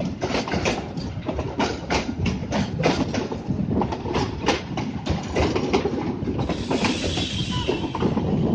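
Railway tank wagons rolling along the track, their wheels clacking over rail joints in an uneven run of knocks over a low rumble. A rushing hiss joins in for a second or two near the end.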